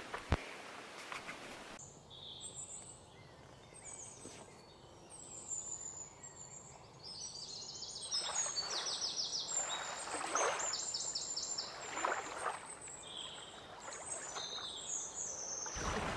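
Birds chirping, with short calls and quick high trills, over a faint outdoor hush, with a few soft swishing sounds midway.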